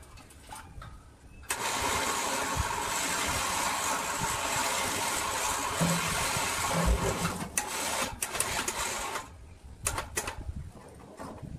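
A power tool running steadily for about eight seconds, starting and stopping abruptly, followed by a few scattered knocks on metal.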